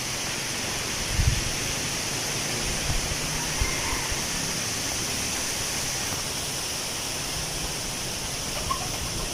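Wind blowing through tree leaves: a steady rustling hiss, with a low gust of wind buffeting the microphone about a second in.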